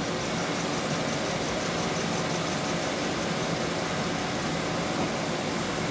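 A 1921 Empire B30 toy live steam engine running steadily under steam, a constant even whir and hiss with no separate exhaust beats to be heard.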